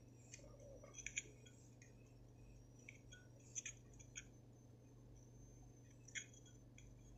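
A few faint, sharp little clicks and taps, spread out, from handling the metal insert of a cheap Zippo-style lighter while its wick is being reset, over a low steady hum.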